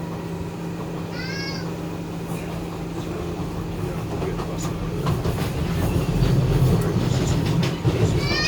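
Docklands Light Railway train running, heard from inside the carriage: a steady low hum that grows louder about halfway through, with a few clicks. A brief high-pitched squeal comes about a second in.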